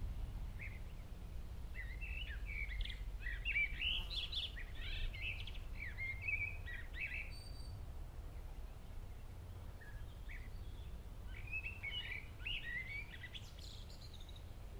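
Songbirds chirping and trilling in two bouts, one starting about a second and a half in and one after about eleven seconds, over a steady low outdoor rumble.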